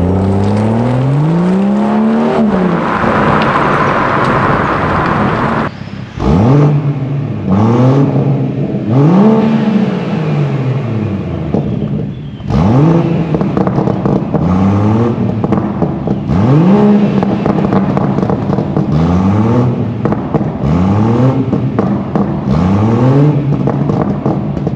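BMW M140i's B58 turbocharged straight-six, with an HJS 300-cell downpipe and Akrapovič slip-on exhaust, revved while standing still. First comes one long rev up and back down. After a cut about six seconds in comes a run of short, quick throttle blips, one every second or two, each rising sharply in pitch and falling away.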